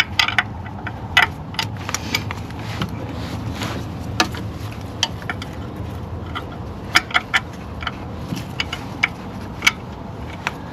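Hand tools working on bolts: irregular sharp metallic clicks and clinks of a socket wrench and loose parts over a steady low hum, in a quick cluster about seven seconds in.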